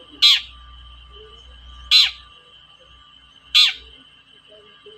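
Long-tailed shrike giving three loud, agitated 'toet-toet' calls about a second and a half apart, each a short note falling steeply in pitch, over a steady high background tone.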